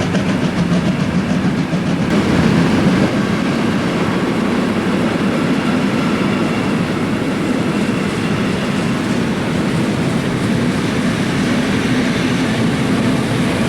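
Trains running on rails: a steady rumble of wheels and running gear, with a faint even clatter in the first couple of seconds.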